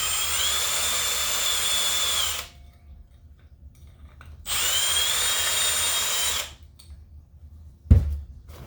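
Electric drill boring aluminium out of a model engine's fan flywheel to balance it: two steady bursts of about two seconds each, each with a high whine. A single sharp knock comes near the end.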